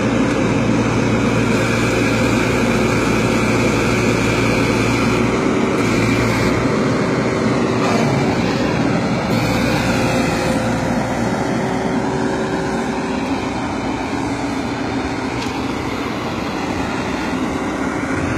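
Backhoe loader's engine running steadily under work, its pitch shifting a few times and easing off slightly in the second half.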